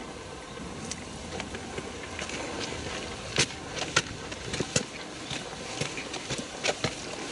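Footsteps on a path: irregular sharp clicks and knocks, the two loudest about halfway through, over steady background noise.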